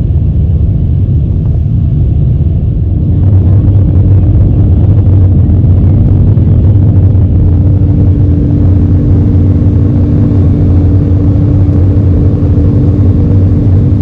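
Airbus A320-216 cabin noise in the climb after take-off: the steady, loud rumble of its CFM56 engines and airflow. About three seconds in, a steady hum joins and the sound gets slightly louder.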